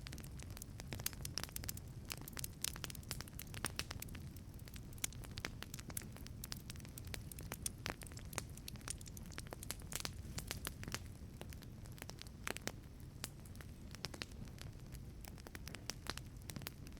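Wood fire crackling in a wood-fired pizza oven: many sharp, irregular pops and snaps over a steady low rumble of the burning fire.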